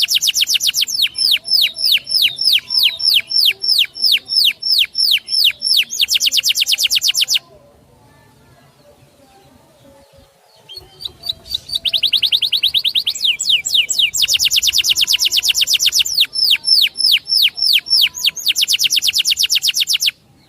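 A songbird singing loud, high, repeated notes that each sweep downward, about two or three a second, broken by stretches of very fast trilling. The song stops for a few seconds in the middle, then resumes.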